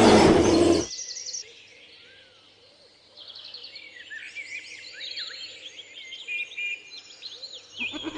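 A loud roar, likely a lion's, ends about a second in. Then a chorus of small birds chirps and twitters, many short calls overlapping.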